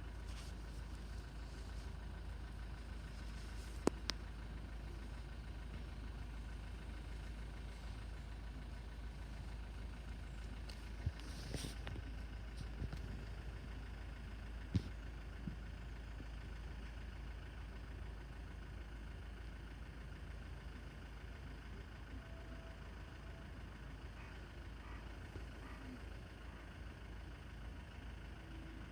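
Faint steady low rumble, with a few short sharp clicks about 4, 11 and 15 seconds in.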